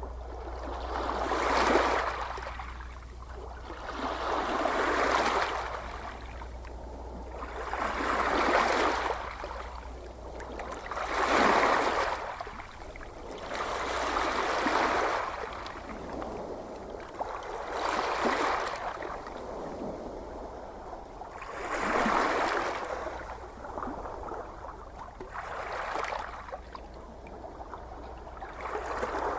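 Gentle ocean waves washing in and receding, one swell of surf every three to four seconds.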